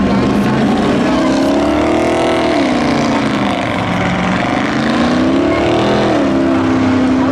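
Race truck engines revving hard, their pitch climbing and dropping as they accelerate and lift off, with a climb about two seconds in and another near six seconds.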